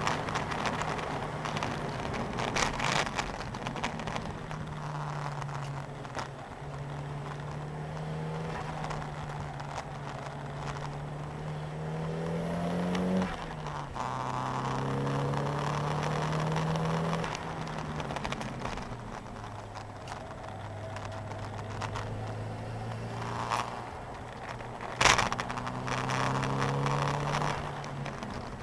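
Nissan 200SX engine heard from inside the cabin at speed on track, its note climbing through the revs, dropping sharply at a gear change about 13 seconds in, climbing again, easing off for several seconds, then pulling up again near the end, over a steady hiss of tyre and wind noise. A single sharp knock sounds a few seconds before the end.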